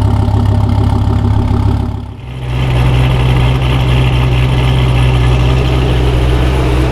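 Car engine idling steadily. About two seconds in, the sound briefly dips, then the idle settles at a slightly higher note.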